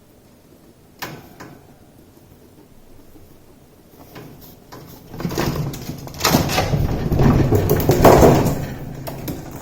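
Two guinea pigs scuffling and chasing in a fight: a single knock about a second in, then about four seconds of loud scrambling, rustling and bumping against the enclosure.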